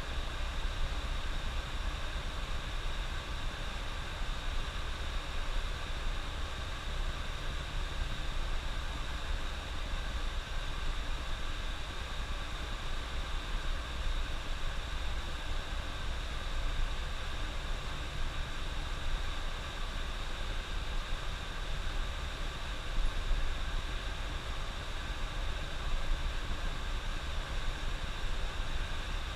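Steady cabin noise of a coach bus driving on the highway: a low engine and road rumble under a constant hiss.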